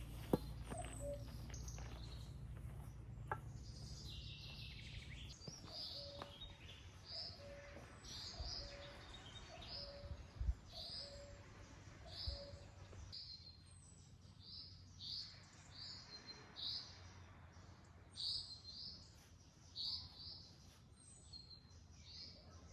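A small bird chirping over and over, short high calls about once a second, faint against the background. A low rumble fills the first few seconds.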